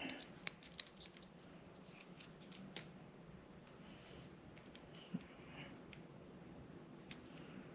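Faint, scattered clicks of small crimped wire terminals being handled and lined up, a few close together about half a second in and single ones later.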